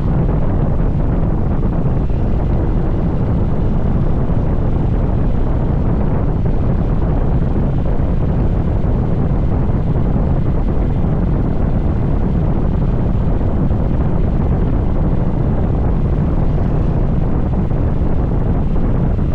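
Steady rushing rumble of a motorcycle under way: wind buffeting the microphone over the bike's road and engine noise.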